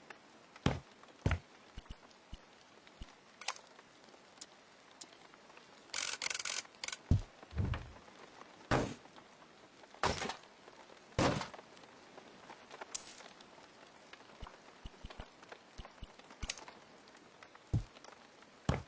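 A string of separate knocks, clunks and clicks of hard objects, wood among them, being handled and set down, with a short rustling scrape about six seconds in.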